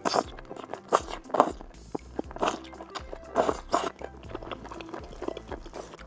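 Close-miked crunching bites and chewing over background music.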